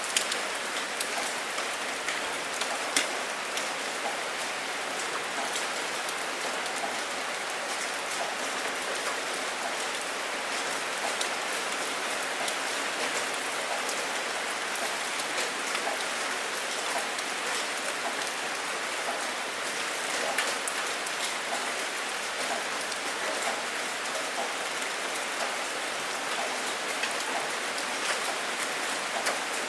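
Rain falling steadily: an even hiss with sharp ticks of single drops here and there, the loudest just after the start and about three seconds in.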